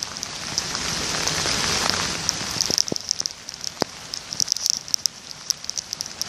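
Steady rain with drops tapping right beside the phone's microphone as scattered sharp clicks. In the first couple of seconds a rubbing noise swells up and fades, the phone's lens being wiped clean.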